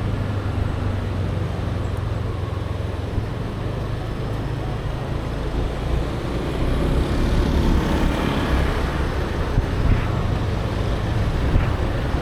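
Steady road traffic noise, low rumbling engines and tyres, with a vehicle passing close by about seven seconds in.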